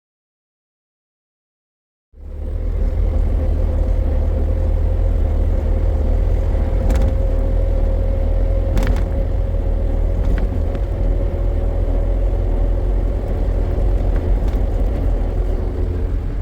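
A vehicle engine running with a loud, steady low rumble and a faint steady whine above it. It starts about two seconds in, after a stretch of silence.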